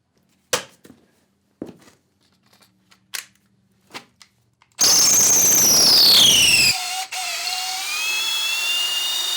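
A few sharp clicks, then a cordless hammer drill starts about five seconds in: a loud rattling run with a whine that falls in pitch, easing after two seconds into a steadier whine.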